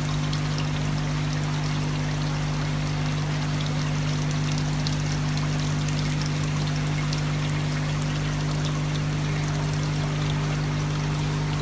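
Water trickling and splashing steadily as it cascades from tier to tier of a tiered polyresin floor fountain, with a steady low hum underneath.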